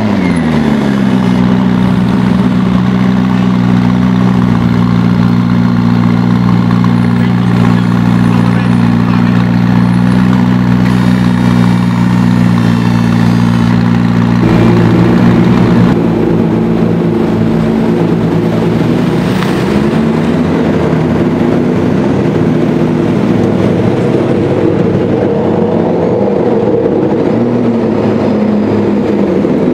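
McLaren P1's twin-turbo V8 idling steadily, its pitch settling down from a rev right at the start. The tone changes about halfway through, with a slight lift in revs a little later.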